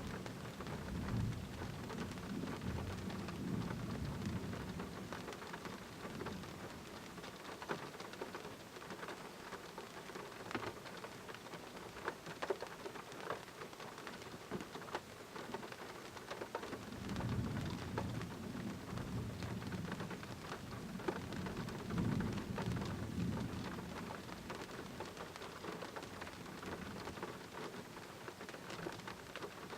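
Steady heavy rain with many sharp drop ticks. Thunder rumbles low in the first few seconds and again for several seconds past the middle.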